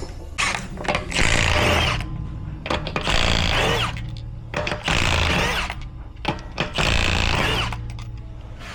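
Rear brakes squealing in repeated bursts, each about a second long and coming roughly every two seconds, with a wavering high-pitched squeal over a steady low hum.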